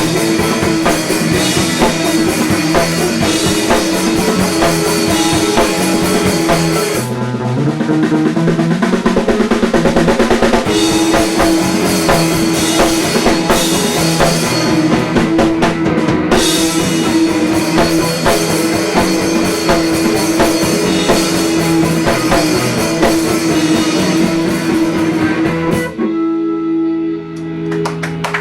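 Live indie-pop band playing electric guitar and drum kit. About 26 seconds in the drums stop and a held chord rings on.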